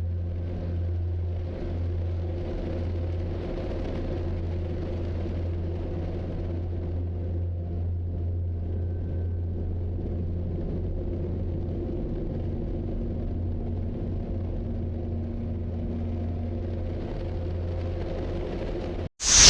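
A steady low rumble with a few faint steady tones above it, unchanging throughout, broken by a brief dropout near the end.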